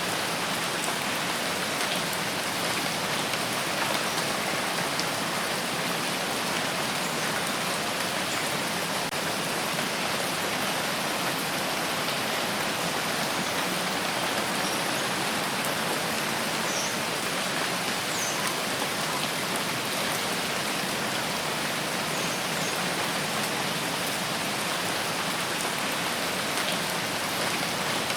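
Steady rain falling, an even hiss of rain on a surface with faint scattered drop ticks.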